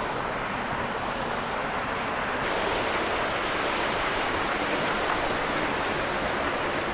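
Steady rush of flowing water from a stream near a waterfall, getting a little louder about two and a half seconds in.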